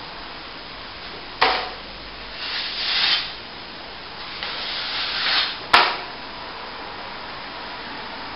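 Plastering trowel scraping top-coat compound over a plasterboard joint: two long strokes that swell and then stop short, with a sharp click about a second and a half in and another just before six seconds.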